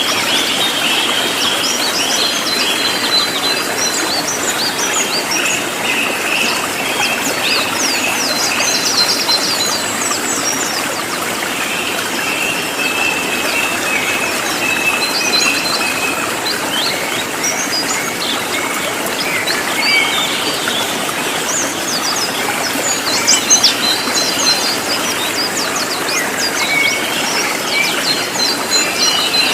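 Cililin songbird singing a loud, dense run of quick, sharp high notes and short whistles ('nembak keras rapat'), over a steady background hiss.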